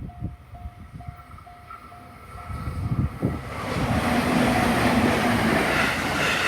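Level-crossing warning bell dinging about twice a second while a train approaches. The train's running noise rises from about three seconds in and passes close and loud, drowning out the bell, with gusts of wind on the microphone underneath.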